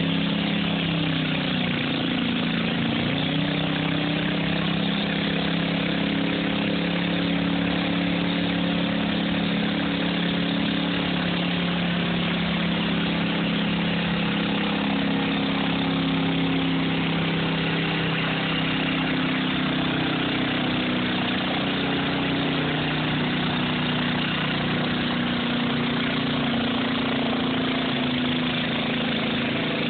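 A 12 hp garden tractor engine running steadily. Its pitch shifts a little in the first few seconds, then holds.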